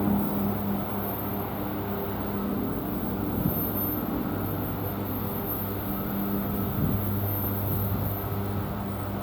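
Electric train at the station giving off a steady low electrical hum that fades in and out, with a few faint knocks.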